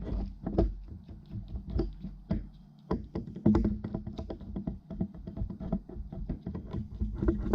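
Small, irregular clicks, taps and knocks of metal and plastic parts and a tool as a spinning fishing reel is unscrewed and taken apart by hand, over a steady low hum.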